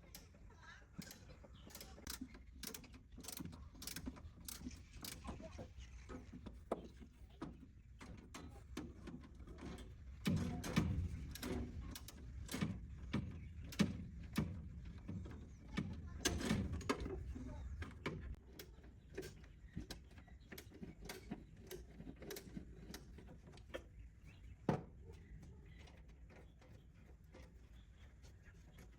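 Hand tools working on engine parts: irregular metallic clicks, clinks and knocks, busier in two stretches, with one sharper knock late on.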